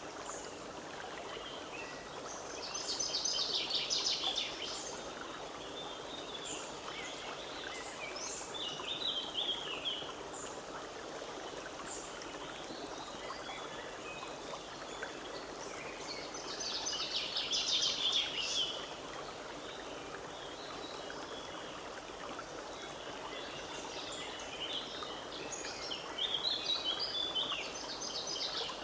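Forest stream running steadily over stones. Songbirds sing short bursts above it: a few seconds in, briefly around 9 s, again past the middle and near the end.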